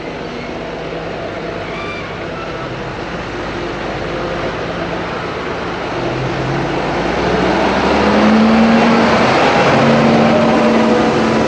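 Heavy diesel farm machinery running during a maize harvest, its engine getting louder as it comes closer.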